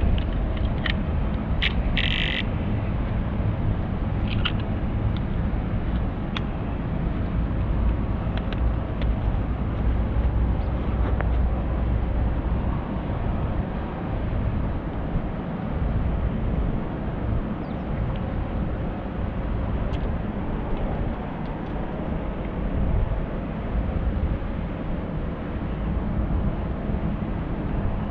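Steady low outdoor rumble, like wind buffeting the microphone by the sea, with a few small clicks and a short hiss about two seconds in.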